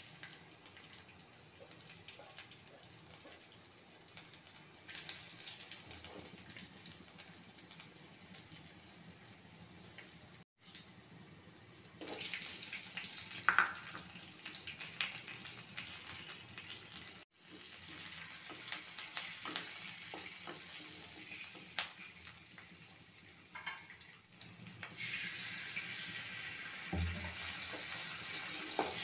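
Garlic and chopped onion sizzling in hot oil in an aluminium kadai: a steady hiss that gets louder about twelve seconds in and again near the end.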